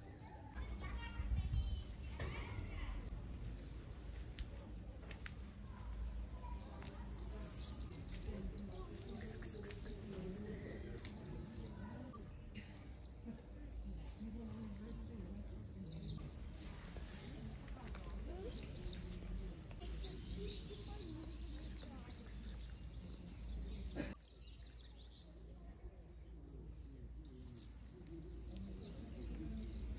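Small birds chirping in a dense, continuous chorus of rapid high-pitched chirps, with a low rumble underneath and a single sharp click near the end.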